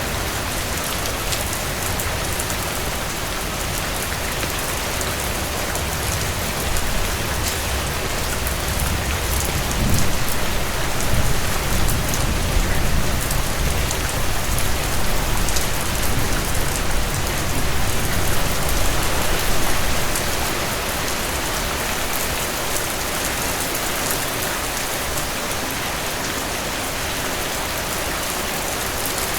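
Heavy rain falling steadily, with scattered sharp ticks through it. A deep rumble swells up about seven seconds in and dies away by about twenty seconds.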